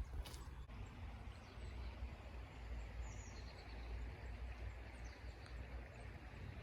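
Outdoor trail ambience: a steady low rumble with a faint bird chirp about three seconds in.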